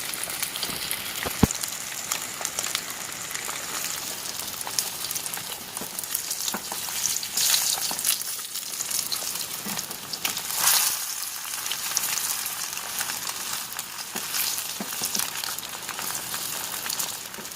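Tilapia deep in hot oil in a frying pan, sizzling and crackling steadily, with louder spells of spattering twice in the middle; the fish is frying to a crisp. A single sharp knock about a second and a half in.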